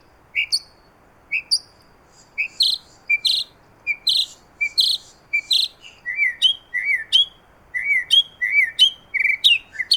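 Mockingbird singing a string of short, sharp phrases, each repeated several times in a row before it switches to a new one, about six seconds in.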